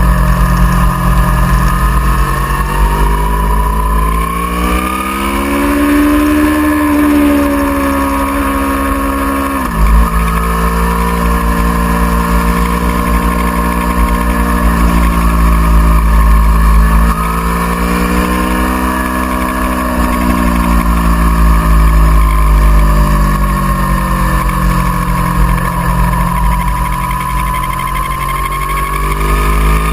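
Aprilia Tuono V4R's V4 engine at track speed, revs climbing and falling in long sweeps, with a sudden sharp dip in revs about ten seconds in, over a steady low rumble.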